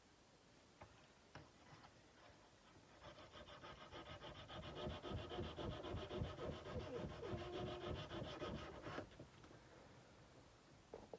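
Sandpaper rubbed by hand along a steel kukri blade in quick back-and-forth strokes, starting about three seconds in and stopping near nine seconds. A short knock comes right at the end.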